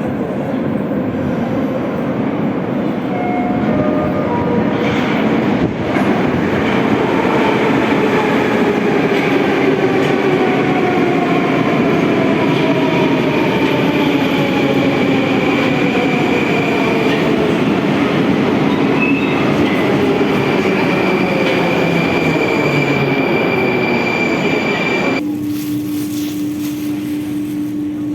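Moscow metro train running and slowing down, the whine of its motors falling in pitch as several descending tones over the steady rumble. About 25 s in the sound cuts off abruptly to a steady low hum.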